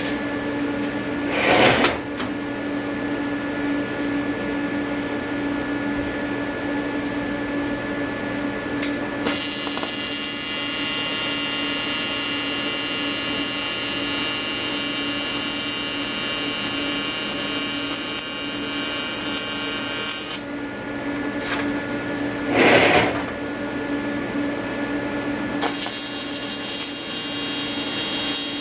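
AC TIG welding arc on an Everlast 325EXT, square wave with pure argon, buzzing on aluminium. It buzzes for about eleven seconds starting about nine seconds in, stops, then strikes again near the end. Between the welds there is a steady hum, with two short scraping noises.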